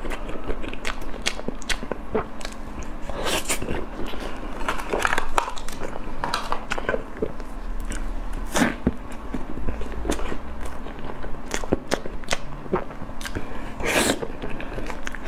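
Close-miked eating sounds: a person biting into and chewing a soft bun dipped in sauce, with wet mouth clicks and smacks throughout and a few louder bites, about three and a half, nine and fourteen seconds in.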